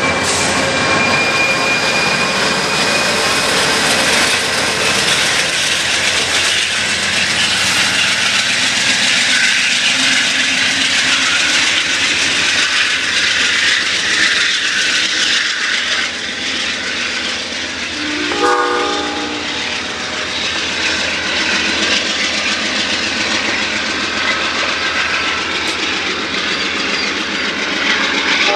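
A train rolling past close by, its wheels making a steady rumble and clickety-clack on the rails. A locomotive air horn sounds a short blast about eighteen seconds in and starts again at the very end.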